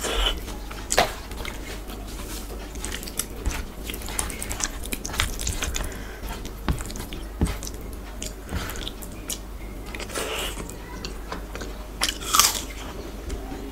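Close-miked chewing and wet lip smacks of someone eating soft khichuri by hand, with frequent sharp mouth clicks and a few louder bites.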